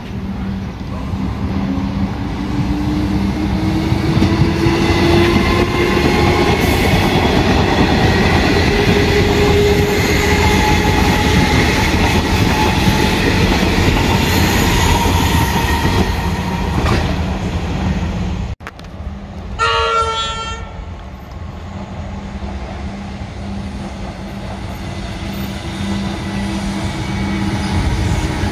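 Metro electric suburban trains passing close: steady rolling rumble of wheels over the rails, with a motor whine that rises in pitch over the first several seconds. About two-thirds of the way through the sound breaks off abruptly. Then a train horn gives one short blast, and a second train's rumble builds toward the end.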